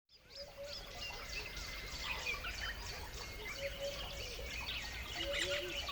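Several birds chirping and calling at once: a busy mix of many short high chirps, with a run of lower, repeated calls joining in during the second half.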